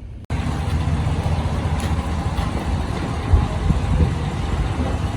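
Steady low rumble of a car engine running, with a brief louder knock about three seconds in.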